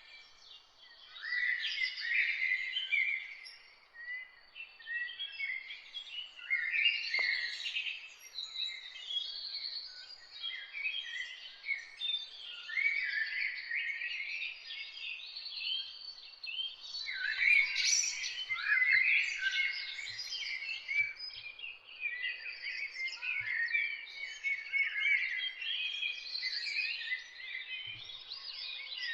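Several songbirds singing and chirping at once, a dense, overlapping chorus of quick, high chirps and short trills with no pause, over a faint steady background hiss.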